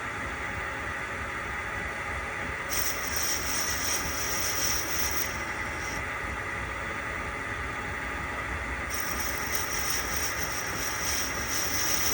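Small workshop machine tool running steadily as it machines a model engine's cylinder head, with a higher hiss that comes and goes twice while the cutter is taking metal.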